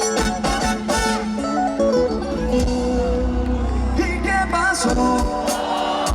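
Live dance band playing, with guitar and percussion; a run of falling notes about two seconds in, and a sung line coming in around four seconds in.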